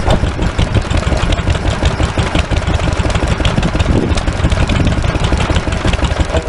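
Stationary engine running steadily, a continuous rhythmic beat of firing strokes.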